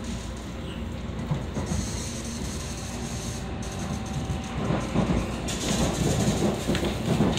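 Tokaido Shinkansen train running, heard from inside the car as it pulls away from the platform. Steady running and track noise, with the rumble growing louder about two-thirds of the way through as the train picks up speed.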